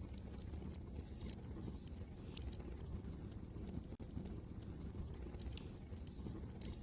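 Wood fire crackling, with irregular sharp pops and snaps over a low steady rumble of wind.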